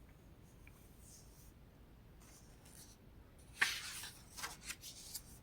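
Room tone, then a page of a book being turned about three and a half seconds in: a short paper rustle followed by a few light paper crackles.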